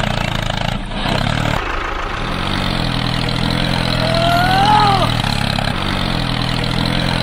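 Tractor engine running steadily. About two seconds in it drops away briefly and climbs back. A separate whistle-like tone rises and falls about four seconds in.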